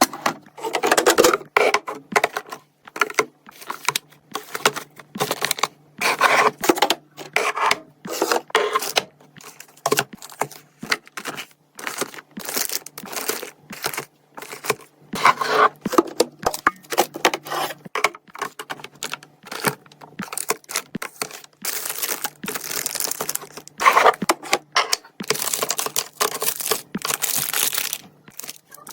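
Food packaging and containers handled while stocking a fridge: irregular clicks and knocks as items are set down, with plastic crinkling and tearing, and longer rustling stretches about three-quarters of the way through and near the end. A faint low hum runs underneath.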